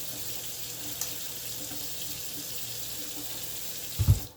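Water running steadily from a tap, with a low thump just after four seconds, then the sound stops abruptly.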